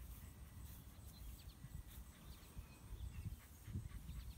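Faint bird chirps, short and falling, scattered through, thickest in the second half, over a low, uneven rumble.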